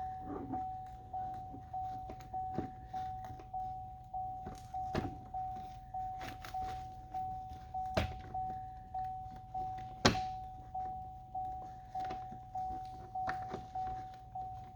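A truck's electronic warning chime dinging steadily, a single tone repeating about twice a second, with scattered knocks and clicks of the plastic door panel being handled; the loudest knock comes about ten seconds in.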